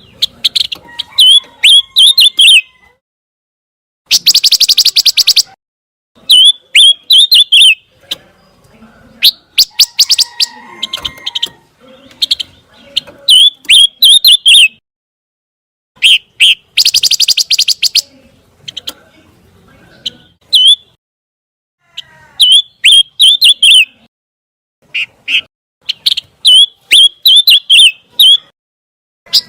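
Bird song of the bird known in Indonesian bird-keeping as pancawarna: short phrases of quick, high twittering chirps repeated every second or two with short pauses between them. Twice it gives a harsh, buzzy trill of about a second and a half.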